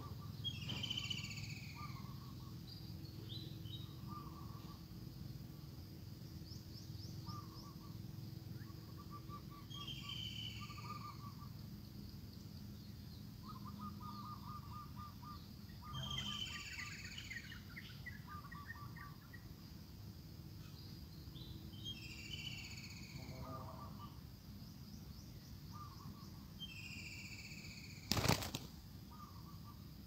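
Wild songbirds calling: a high, sharp, falling chirp comes back about every five or six seconds, with short trilled notes in between. A single sharp knock comes near the end.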